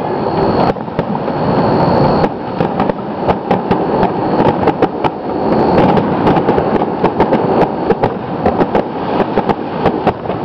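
Aerial firework shells bursting in quick succession: a dense, continuous run of bangs and crackles.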